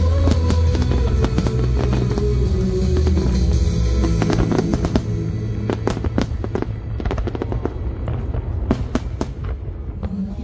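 Fireworks show music playing loudly with fireworks bursting over it: a quick run of sharp bangs and crackles that grows dense in the second half.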